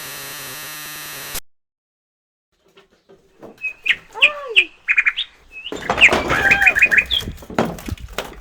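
A tui calling: a jumble of quick clicks, short whistles and gliding notes that swoop up and down, starting a few seconds in and growing louder. It is preceded by a steady static-like hiss that cuts off suddenly after about a second and a half.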